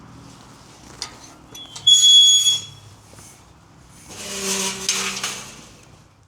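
A short, loud, steady high-pitched whistle about two seconds in. Then, about four seconds in, a vehicle passes on the A465 dual carriageway, its sound swelling and fading over a second or two.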